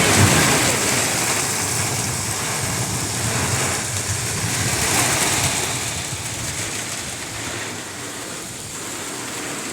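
Strong thunderstorm wind gusting and buffeting the microphone, a steady rushing noise with a low rumble that swells about halfway through and then eases off.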